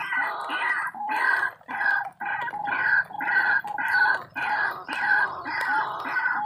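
White-breasted waterhen's repeated call, a loud croaking note about two to three times a second, used as the ruak-ruak call in snaring the birds.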